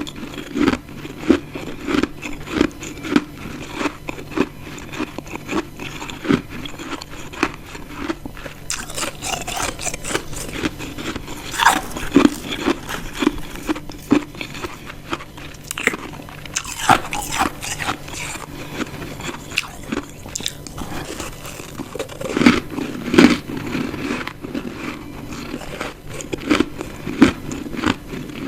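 Close-miked ice eating: chunks of ice bitten and chewed in a long run of crisp crunches, with a few louder bites in the second half.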